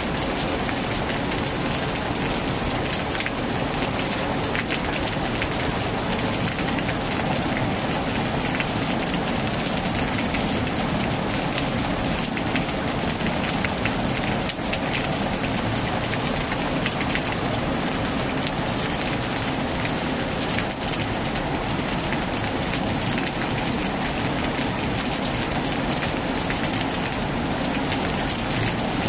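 Heavy rain falling steadily on a tin roof, an even hiss with faint scattered drop ticks.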